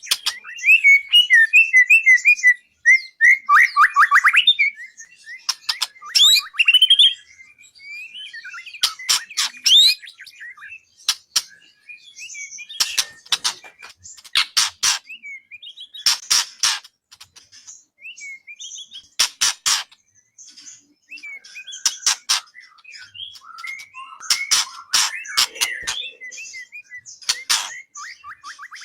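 White-rumped shama (murai batu) singing a varied song: rapid trills and repeated notes, whistled glides and short harsh chattering notes, phrase after phrase with brief pauses between.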